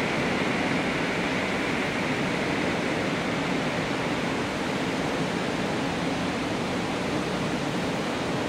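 Steady rushing noise of an EN57 electric multiple unit pulling away into the distance, slowly fading. A higher hiss within it dies away in the first couple of seconds.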